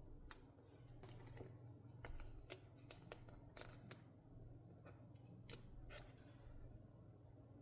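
Scissors snipping paper: a scattering of quiet, sharp snips at uneven intervals.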